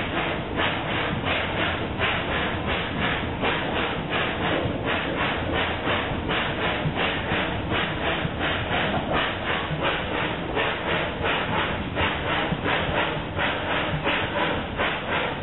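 Steam locomotive No. 119 chuffing steadily as it pulls the train, about four exhaust beats a second, with hissing steam and wheels clicking on the track.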